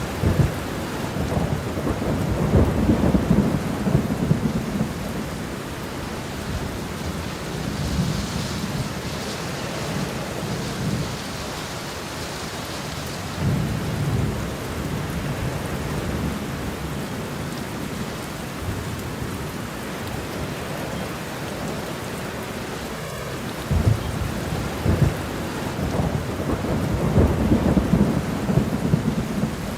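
Steady rain falling, with low rolling rumbles of thunder that swell near the start and again near the end. About a third of the way in, the rain's hiss turns brighter for a few seconds.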